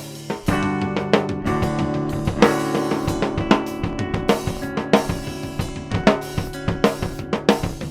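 Band music with a drum kit playing: bass drum, snare and cymbal strokes under sustained instrumental chords. It drops out briefly at the start and comes back in about half a second in.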